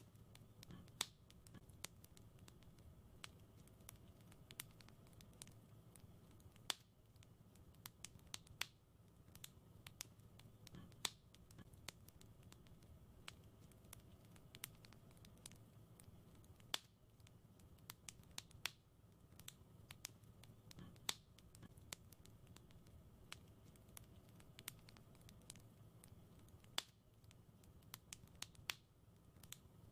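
Wood fire in a fireplace crackling: irregular sharp snaps and pops, a few louder ones every couple of seconds, over a low soft rumble of the burning. The same crackle pattern repeats about every ten seconds.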